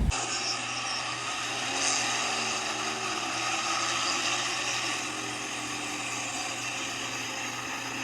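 A drag car's engine accelerating down the strip, heard from a distance, its pitch rising for a few seconds over a steady low hum.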